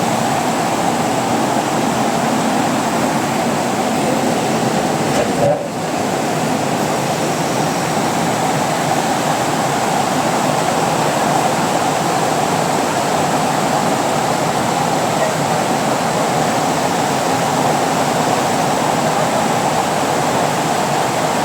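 Swollen floodwater rushing: a loud, steady wash of water noise, broken by a brief dip about five seconds in.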